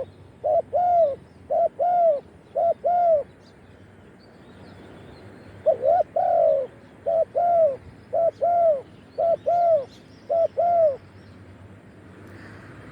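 Spotted dove cooing: two phrases of repeated rounded, arching coos, the second starting about six seconds in after a short pause. Faint chirps of small birds are heard in the background.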